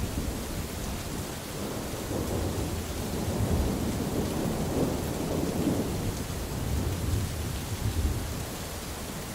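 Steady rain with a long roll of thunder rumbling low underneath, swelling a few seconds in and easing off near the end.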